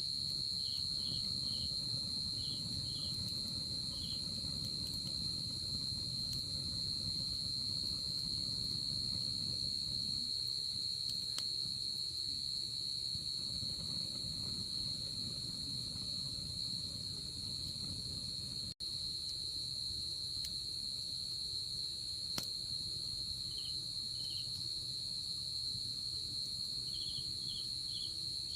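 Night insects calling: one keeps up a steady high trill while another chirps in short pulses near the start and again near the end, over a low rumble with a few faint crackles from a wood campfire. The sound cuts out for an instant about two-thirds of the way through.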